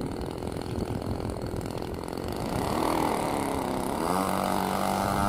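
Radio-control model biplane's engine and propeller running: a rough low rumble at first, then a whining pitch that rises and bends from about halfway through.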